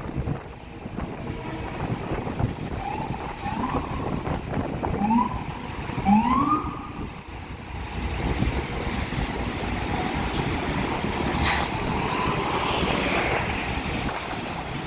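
City shuttle buses running in street traffic, with a few short rising whines as they pull away and a brief sharp hiss about eleven seconds in.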